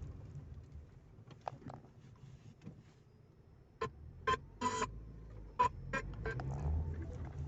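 Car CD player skipping on a scratched disc: the music drops out over a low steady hum, then comes back as a handful of sharp clicks and short stuttering blips in the second half.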